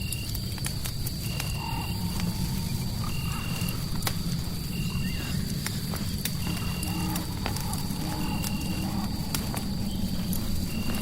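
Crackling fire with irregular sharp pops over a steady low rumble of noise, while a short high chirp repeats about once a second.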